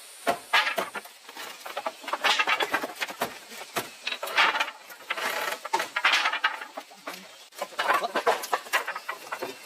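Chickens clucking and squawking in a series of loud bursts, about five of them.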